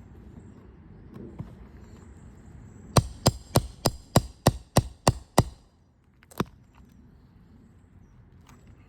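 Roofing hammer blows, nine quick sharp strikes about three a second and then a single strike a second later, as it works a nail out from under an asphalt shingle.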